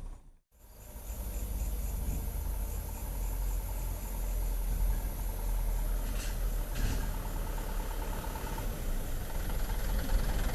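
Truck engine idling with a steady low rumble that starts after a brief break about half a second in, with a thin, steady high-pitched chirring above it.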